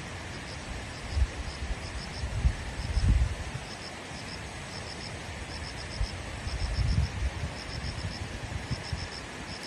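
An insect, likely a cricket, chirps in short high pulses grouped two to five at a time, over a steady hiss. A few low, dull bumps, the loudest sounds, come about a second in, around two and a half to three seconds in, and near seven seconds.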